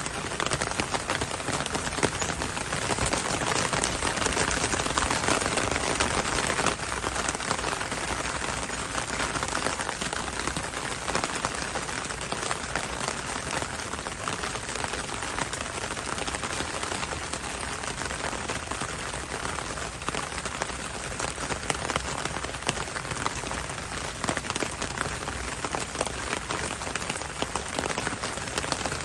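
Heavy rain falling steadily, a dense hiss full of fine drop patter, slightly heavier in the first several seconds.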